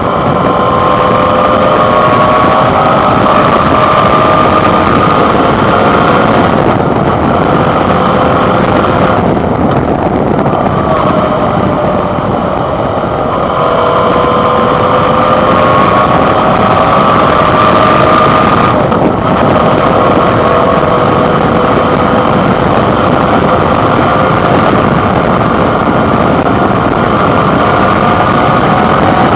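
Suzuki DL650 V-Strom motorcycle's 645 cc V-twin engine running under way, heard from the handlebar, its pitch rising and falling with the throttle and easing off briefly a few times.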